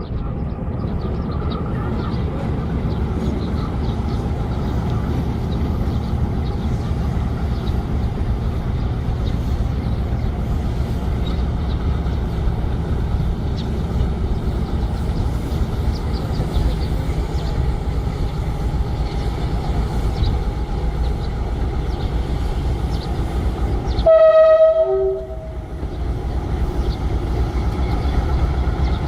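Diesel train locomotive rumbling steadily, with one loud horn blast of about a second near the end.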